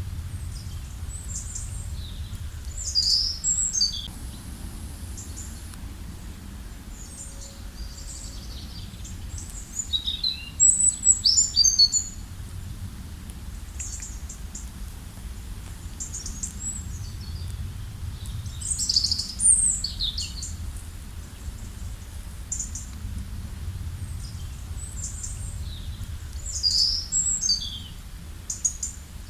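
Songbirds singing short phrases of high, quickly falling notes, repeating about every eight seconds, over the steady low rush of a river.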